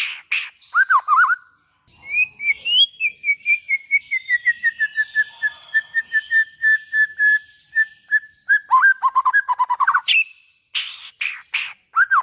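White-rumped shama (murai batu) singing: after a short pause, a long run of rapid repeated whistled notes lasting about six seconds, slowly falling in pitch, then lower looping whistles. Harsh rasping notes follow near the end.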